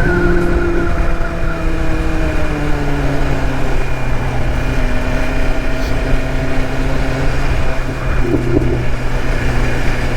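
BMW S1000 RR M Carbon inline-four engine running as the bike is ridden; its pitch falls gradually over the first few seconds as it slows, then holds steady.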